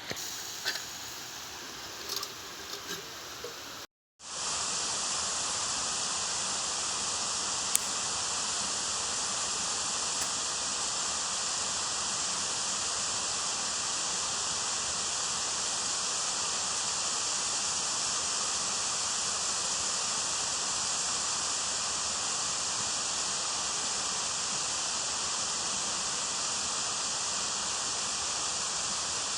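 A few light clicks and handling knocks, then after a sudden break a loud, steady rushing hiss of running water from a forest stream.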